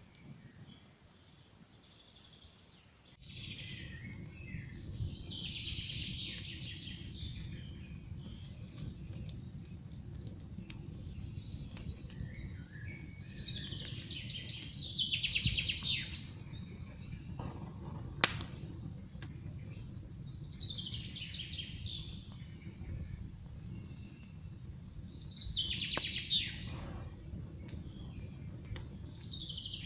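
Campfire crackling with a low steady rumble and a few sharp pops, over songbirds repeating a falling song phrase about every five seconds. The fire sound comes in suddenly about three seconds in.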